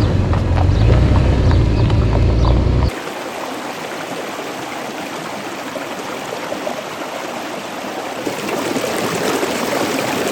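A loud low rumble, then after an abrupt cut about three seconds in, the steady rush and gurgle of a flowing stream.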